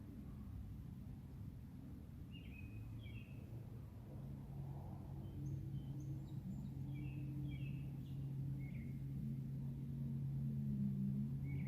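Evening outdoor ambience: scattered short bird chirps over a steady low hum that grows a little louder toward the end.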